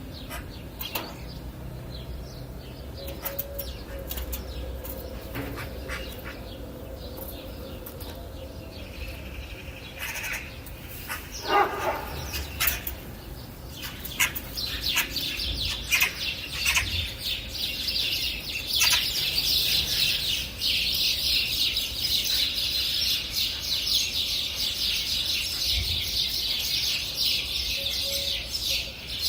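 Wild birds chirping: sparse calls at first, then from about halfway a dense chorus of many small birds chirping continuously.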